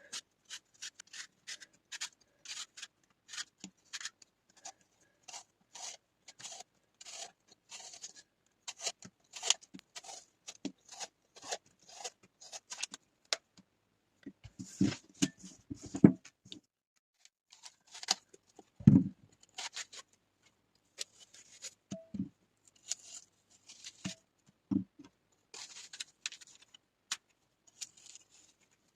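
Hand food-preparation sounds: quick scraping strokes at about two a second, then a few dull knocks on a hard surface, the loudest about two-thirds through, and softer scraping again near the end.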